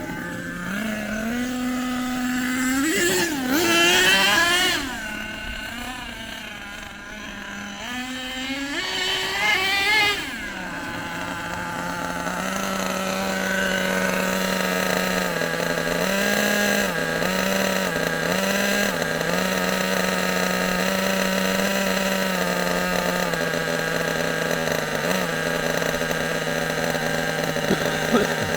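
HPI Savage SS nitro RC truck's small glow-fuel engine running: it revs up and falls back twice in the first ten seconds, then settles into a steady idle.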